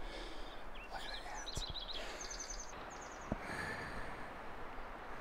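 Quiet forest ambience with a small songbird calling: a quick run of high chirps and short trills between about one and three seconds in.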